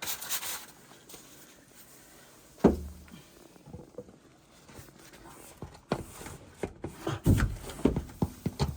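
A single sharp knock about three seconds in, then a quick run of thumps and knocks near the end.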